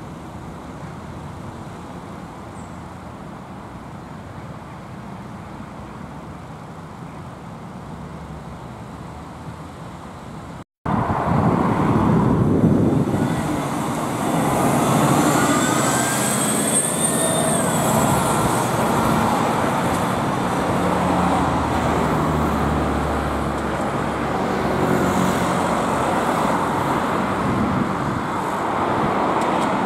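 Public-transport vehicle noise heard in two shots: a quieter steady rumble, then after a cut about eleven seconds in, a louder vehicle passing close, with a whine that rises and then falls in pitch.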